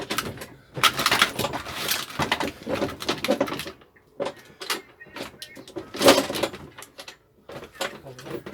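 A steel lawnmower being handled and tipped over: irregular scraping, rattling and knocking, densest in the first few seconds, with a sharp knock about six seconds in.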